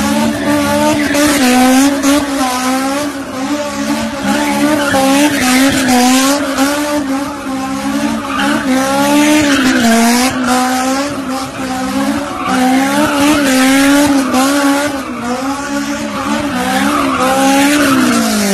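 Car engine held at high revs during donuts, its pitch wavering up and down as the throttle is worked, over the hiss and squeal of spinning rear tyres; the revs drop away at the very end.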